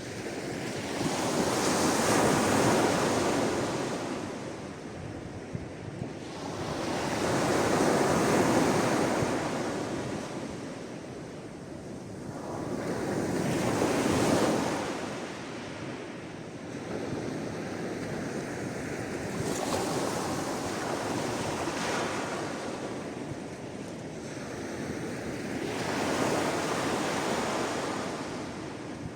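Sea waves breaking and washing on the shore, each one swelling up and drawing back in a slow rhythm, about one wave every six seconds.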